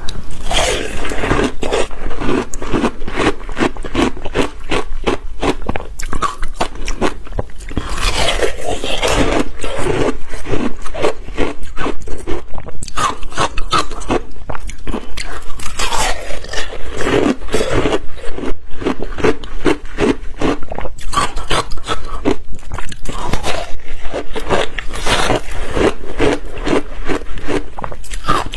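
Ice with passion fruit being bitten and chewed in big bites, a steady run of loud, dense crunching and crackling.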